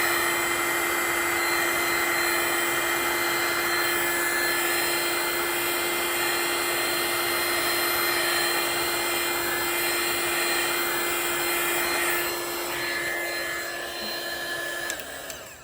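Heat gun blowing steadily with a constant motor whine, pushing the white resin across a coaster into lacy beach waves. It falls away about twelve seconds in and switches off near the end.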